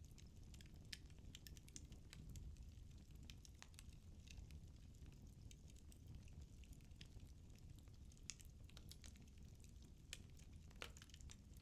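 Firewood burning in a fireplace, crackling faintly: irregular small pops and snaps, a couple of them louder around eight and eleven seconds in, over a low steady rumble.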